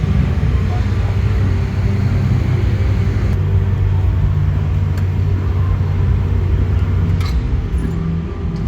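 Ferrari engine running steadily at low revs, a deep even rumble, with a few sharp clicks near the end.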